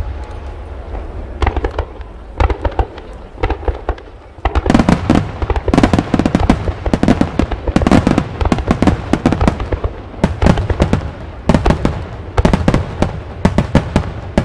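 Extra-large starmine fireworks barrage: shell bursts fired in rapid succession, booming and crackling. It thins out for a few seconds, then turns into a dense, unbroken run of bursts from about four and a half seconds in.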